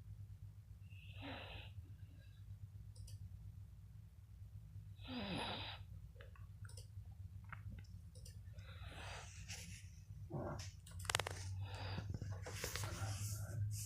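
Dog snoring in its sleep: wheezy, noisy breaths about every four seconds, one with a low rattle about five seconds in. A few clicks and rustles near the end, over a steady low hum.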